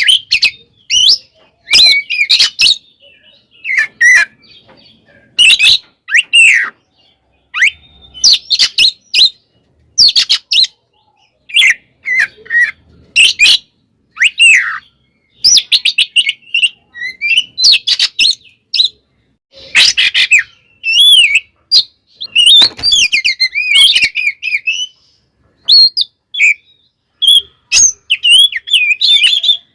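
Oriental magpie-robin (kacer) singing loudly in quick bursts of varied whistles, trills and harsh chattering notes, broken by short gaps. It is the agitated, fighting-mode song that kacer keepers play to rile other males.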